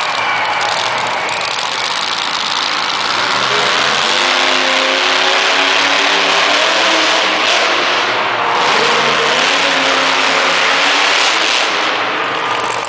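Grave Digger monster truck's supercharged V8 running loud and being revved, its pitch rising and falling repeatedly in the middle stretch.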